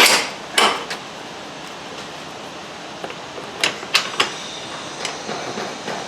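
Sharp metallic knocks and clanks of tools striking metal while a front suspension lower control arm is being fitted. There is one strike right at the start and another just after half a second, then three quick ones about three and a half to four seconds in.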